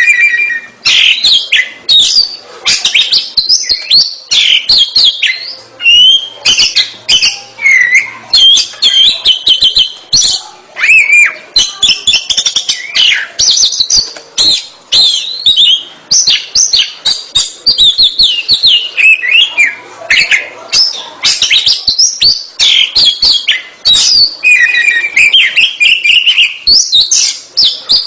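Oriental magpie-robin (kacer) singing continuously and loudly: a rapid, varied stream of whistled notes, slurs and trills with hardly a pause.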